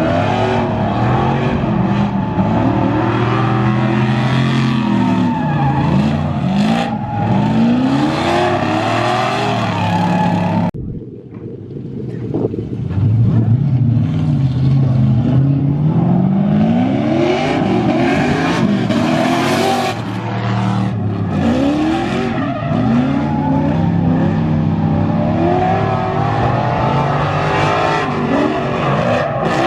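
Drift cars on track, engines revving hard and rising and falling in pitch again and again as the throttle is worked, with tyre squeal and skid noise. About eleven seconds in the sound cuts abruptly, dips briefly, then the revving and skidding pick up again.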